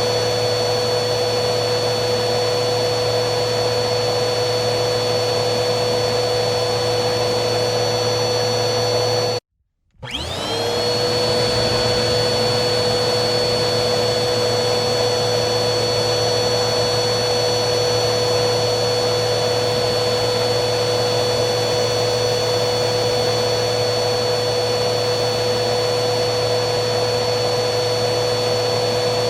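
Vacuum cleaner motor running steadily with a high whine. About ten seconds in it cuts out for half a second, then spins back up, its whine rising to full pitch within about a second.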